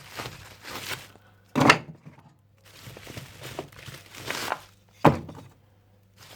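Wooden firewood offcuts being laid into a fireplace firebox, with softer scraping and rustling as pieces are placed. Two louder wooden thunks come about a second and a half in and about five seconds in.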